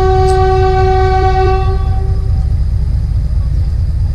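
Narrow gauge diesel locomotive's horn sounding one long steady note that fades out about two seconds in, over the steady low rumble of the train running on the track.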